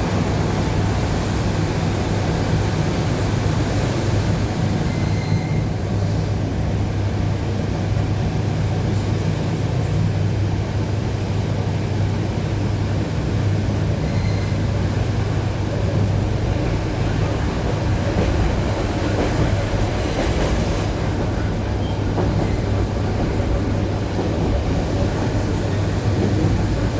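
ED9E electric multiple unit running, heard from inside the car: a steady low traction hum over the rumble of wheels rolling on jointed rail, with a few brief faint high squeals.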